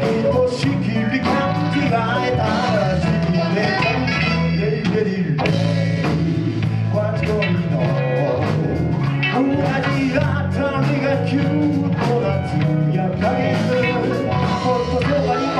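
A live band playing a rock song, with a voice singing over it.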